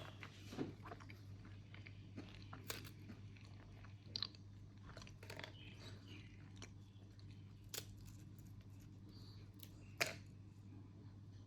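Quiet chewing of crunchy ration food, with scattered small crunches and a few sharper crackles, over a low steady hum.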